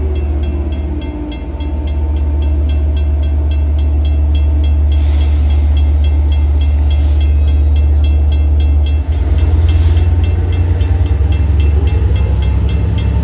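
Long Island Rail Road diesel train running with a deep, steady rumble and a fast, even pulsing, with two bursts of hiss about five and nine seconds in.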